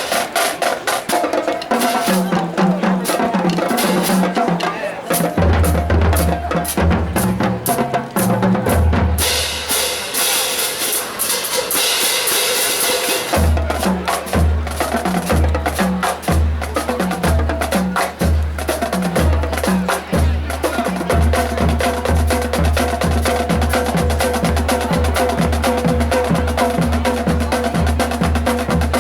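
High school marching band playing, led by the drumline: bass drums pound a steady beat under held brass chords, with a bright cymbal wash around ten seconds in.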